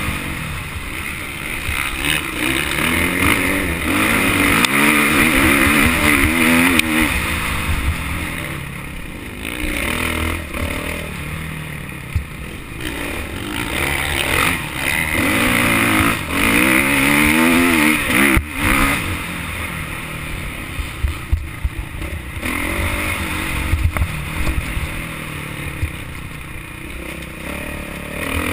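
Motocross bike engine revving up and easing off again and again, its pitch climbing and falling as the throttle is worked around the track.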